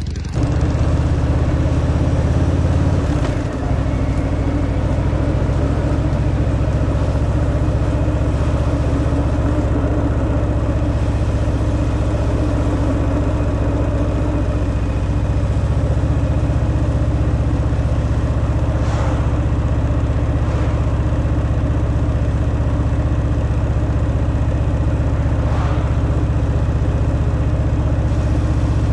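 Harley-Davidson Fat Boy's air-cooled V-twin running steadily at idle through its stock exhaust, with a brief dip in level about three seconds in.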